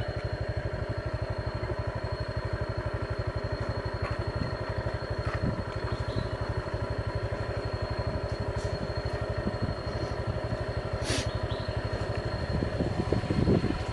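Small motorbike engine running at a steady speed as it is ridden along, with a faint high whine above it and a brief click about eleven seconds in.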